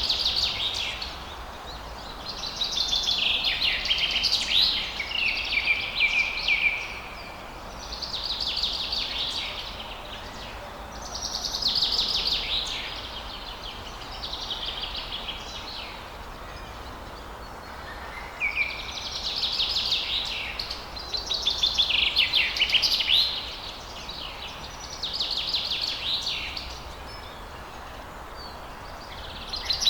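Songbirds singing at dawn: short phrases of rapid, high chirping notes, a new phrase every few seconds, over a steady faint hiss.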